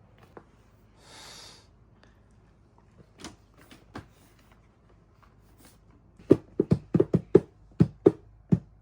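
A short hiss about a second in, then a quick run of about nine loud, sharp knocks or taps over the last two and a half seconds.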